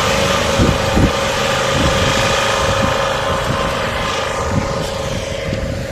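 Road traffic: a motor vehicle's steady engine drone that slowly fades away, over wind buffeting the microphone.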